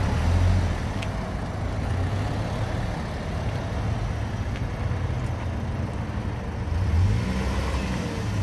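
Pontiac Solstice's four-cylinder engine running as the car moves off, with the engine note swelling and rising briefly about seven seconds in. It is running with a newly replaced variable valve timing solenoid and its fault codes just cleared.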